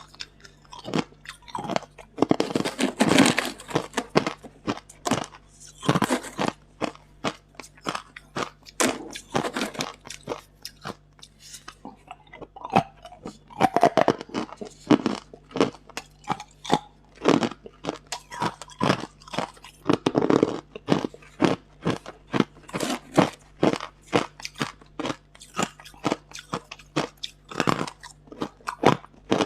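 Hard ice being bitten and chewed close to the microphone: a rapid run of sharp crunches and cracks, several a second, with louder bursts of crunching every few seconds as fresh pieces are bitten.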